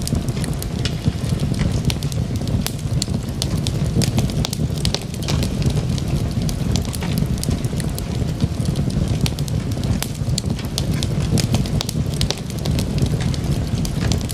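Wood logs burning in a fireplace: a steady low rush of flame with frequent sharp crackles and pops scattered irregularly throughout.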